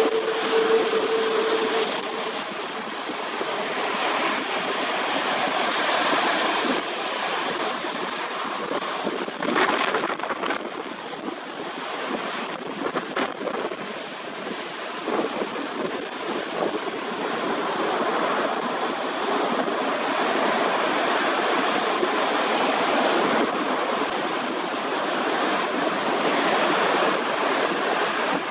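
Boeing 787-8 jet engines running, a steady loud rushing noise with a thin high whine coming in about five seconds in.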